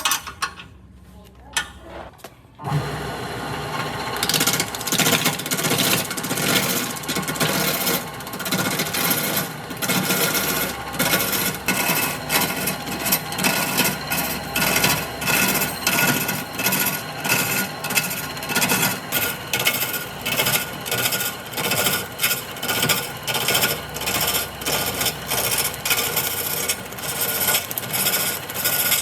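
Wood lathe running while a turning tool scrapes and cuts the spinning wood, in regular strokes of about three every two seconds. It starts about two and a half seconds in, after a few light clicks.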